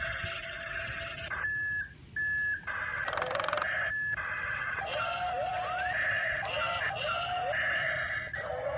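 Electronic beeps and chirping tones: short steady beeps that start and stop, mixed with rising and falling chirps and a brief buzz.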